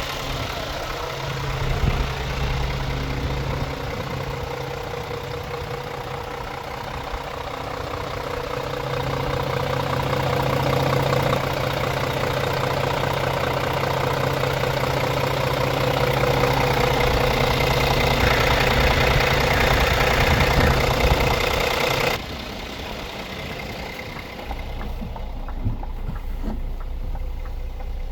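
Scania R450 truck's 13-litre six-cylinder diesel idling steadily. About three quarters of the way through, the sound drops suddenly and turns quieter and more muffled.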